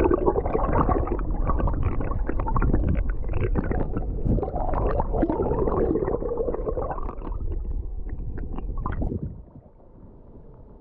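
Muffled gurgling and rumbling of river water heard through a camera held underwater during a fish release, with small clicks and knocks of handling; it drops off suddenly about nine seconds in.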